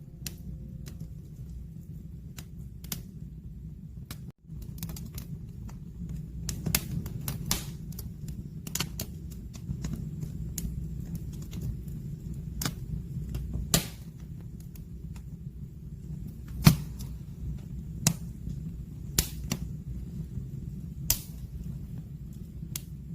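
Logs burning in an open wood fireplace: a low steady rush of flame with irregular sharp crackles and pops, the loudest about two-thirds of the way in.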